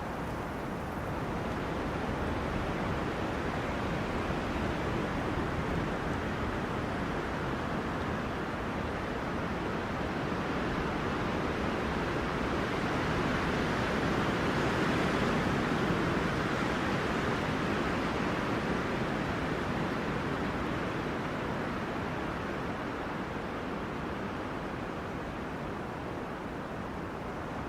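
Wind rushing through tree crowns in gusts, a steady noise that swells to a stronger gust about halfway through and then eases off.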